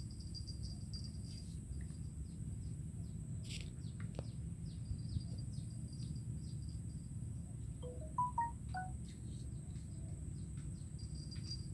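Outdoor riverside ambience: a steady low rumble with faint high insect chirring, and a short bird call of a few quick notes about eight seconds in.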